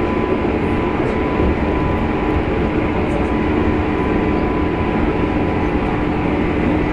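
Running sound inside the motor car of a 103-series electric train at steady speed: a constant rumble from the wheels and running gear with a steady high whine over it.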